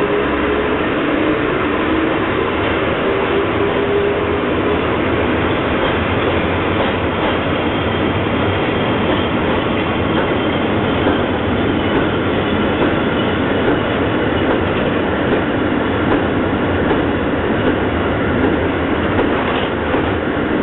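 Seibu E31 electric locomotive's train of hopper wagons rolling past steadily, a continuous wheel-on-rail rumble with clickety-clack over the rail joints.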